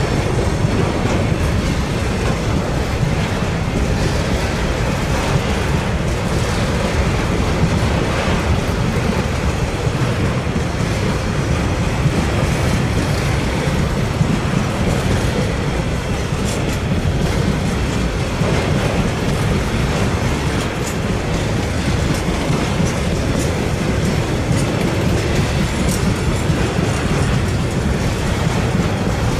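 Freight train rolling past, a steady rumble with the clickety-clack of wagon wheels over the rail joints.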